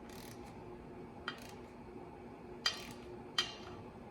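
Torque wrench drawing down the clutch bolts: a few sharp metallic clicks, the loudest two about a second apart near the end, over a faint steady hum.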